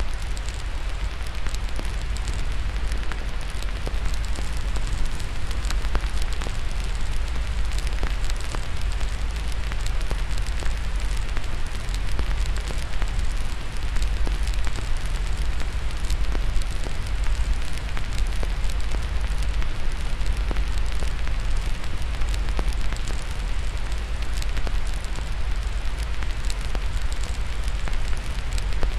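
Fire crackling with frequent small pops and snaps over a steady hiss of white noise and a steady low rumble.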